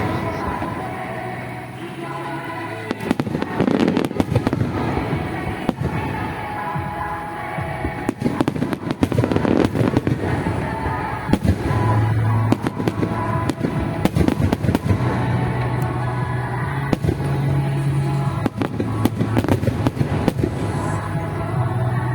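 Aerial fireworks bursting in a rapid run of overlapping bangs and crackles, over music played along with the display.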